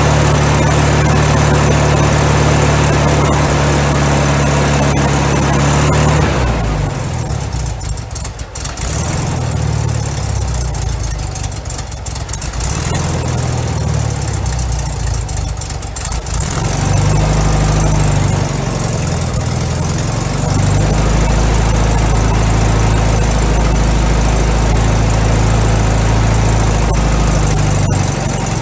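Volkswagen Beetle's air-cooled flat-four engine running on a cold start. About six seconds in it falters and runs weakly and unevenly for roughly ten seconds, then picks back up and settles into a steady fast idle. The carburettor doesn't like to idle; the engine hasn't had a tune for about 15 years.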